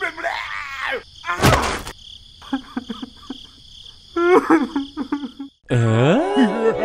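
Cartoon sound effects over a steady, high, cricket-like chirring. Squeaky character vocalizing comes first, then a short noisy burst about a second and a half in, then scattered chirps and clicks. A sliding cartoon voice comes near the end.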